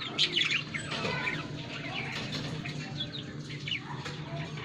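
Many caged birds chirping and squawking together in short, overlapping calls.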